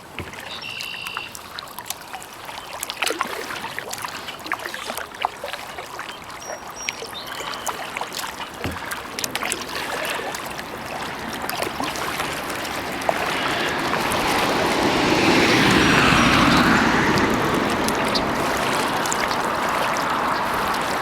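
Kayak paddle dipping and dripping water, with many small splashes and drips against the hull. About two-thirds of the way through, a broad rushing noise swells up and stays.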